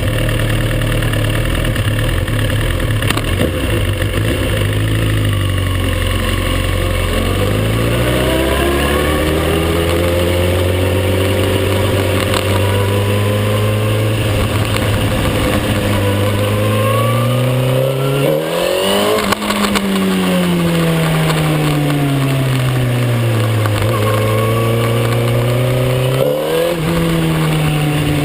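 Suzuki GSX-R1000 K9's inline-four engine heard on board, holding a steady note for the first few seconds, then rising and falling in pitch several times as the bike accelerates and eases off, with a sharp rise and drop about two-thirds of the way through.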